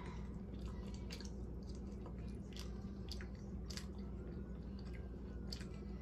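Close-miked chewing of a chicken taco, with scattered wet mouth clicks and small crunches over a steady low hum.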